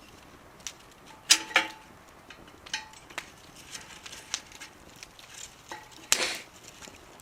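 Wood fire crackling in a small metal wood stove: a handful of sharp, irregular pops, the loudest about a second and a half in and about six seconds in, a few with a short metallic ring.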